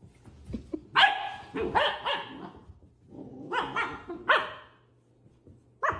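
Dog barking: a few short barks about a second in, then another group about three and a half seconds in.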